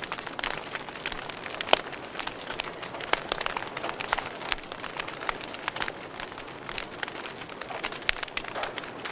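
Wood fire crackling in a fireplace: a steady hiss with many irregular sharp pops, one louder pop about two seconds in.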